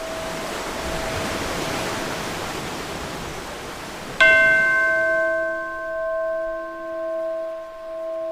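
Ocean waves washing, then about halfway a single bell strike that rings on, pulsing slowly, as the wave sound fades out.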